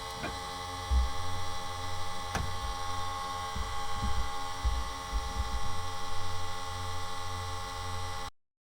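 Fiat 124 Spider's 1.4L MultiAir turbo four-cylinder idling unevenly, with a few heavier low thumps in the rumble, the rough idle the owner is chasing as a cylinder 4 misfire. The sound cuts off suddenly near the end.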